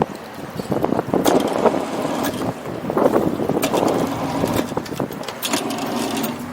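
Bumper boat's small motor running, with scattered knocks and rattles. A steadier, pitched engine note joins near the end before the sound cuts off.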